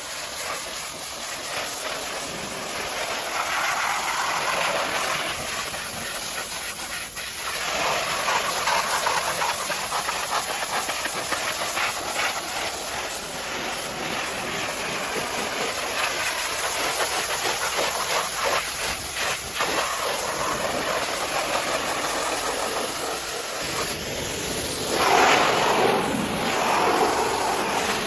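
High-pressure washer spray hissing steadily, its tone shifting a few times and swelling louder about 25 seconds in.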